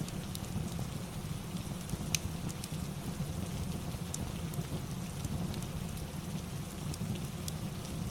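Rain-and-fireplace ambience: a steady rush of rain over a deep rumble, with scattered sharp crackles.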